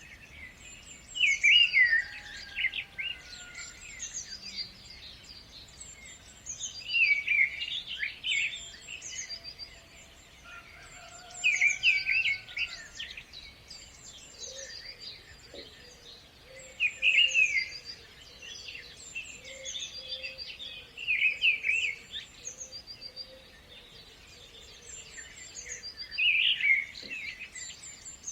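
Songbirds singing: bursts of quick chirping phrases about every five seconds, with a thin high twittering carrying on between them over a faint background hiss.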